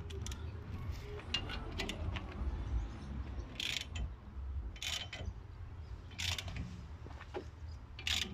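Metal clicks and creaks from tools working a wheel bearing into the steering knuckle, with four sharp clicks about a second and a half apart over a low steady hum.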